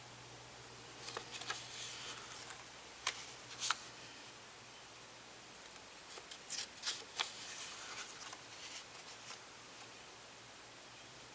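Sketchbook pages being turned and handled: soft paper rustles and light taps in a few short clusters.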